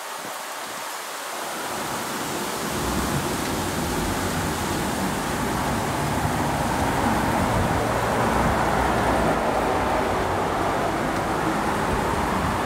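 Thunderstorm: a long, low rumble of thunder that swells over the first three seconds and keeps rolling, over a steady rushing noise.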